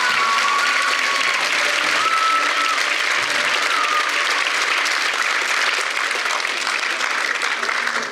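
Concert audience applauding, with a few high whistles in the first few seconds; the clapping thins out near the end.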